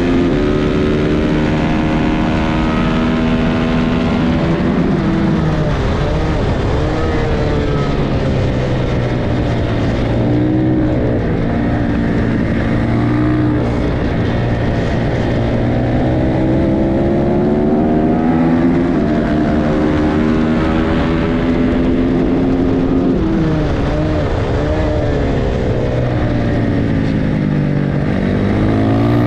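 Several small race motorcycle engines at high revs, their pitch dropping as the bikes slow for a corner and climbing again as they accelerate away, over and over.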